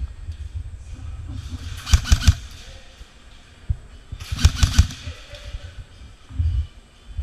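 Airsoft gun firing two short bursts of rapid shots, the first about two seconds in and the second about four and a half seconds in.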